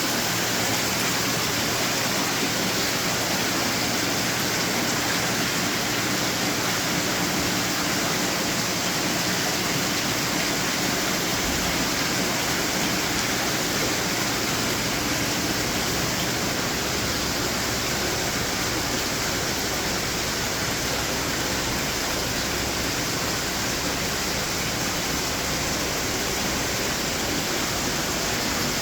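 Running water from outdoor garden fountains splashing and trickling, a steady rushing noise.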